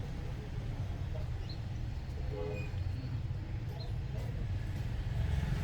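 Steady low background rumble, with a few faint brief higher sounds about two and a half seconds in.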